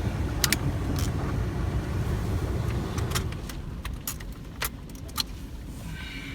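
Low road rumble inside a car easing off after about three seconds as the car comes to a stop, with a series of sharp clicks and small rattles, most of them bunched together in the second half.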